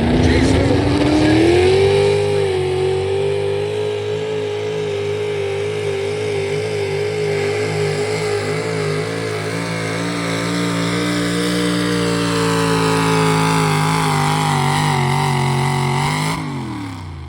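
Competition pulling truck's engine at full throttle under heavy load from the sled. It climbs in pitch over the first couple of seconds and holds high for about fourteen seconds, then falls away near the end as the throttle comes off.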